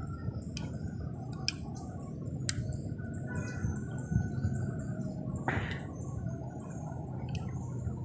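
Faint bird calls over a steady low rumble, with a few sharp clicks and a brief rustle about five and a half seconds in.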